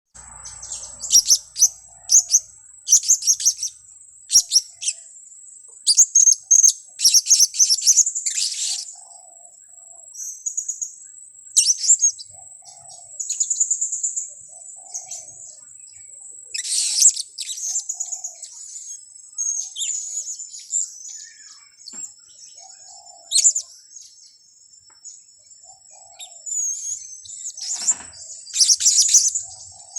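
Blue-crowned hanging parrots (serindit) calling: bursts of shrill, very high, rapid chirps every second or two. Softer, lower notes repeat about every two seconds, over a thin steady high tone.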